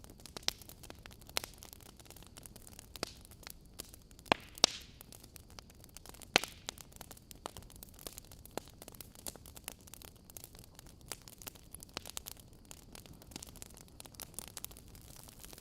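Wood fire burning in a fireplace: irregular sharp crackles and pops over a steady low hiss, the loudest pops a little over four and about six seconds in.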